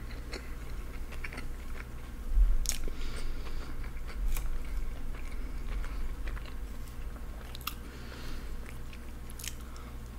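Close-miked eating of a soft sandwich: biting and chewing with wet mouth clicks and smacks scattered throughout, the loudest a little over two seconds in.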